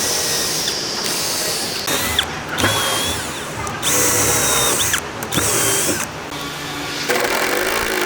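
Handheld electric power tool, most like a drill, working wood in several short runs with brief breaks between them; its whine dips and rises in pitch as it bites.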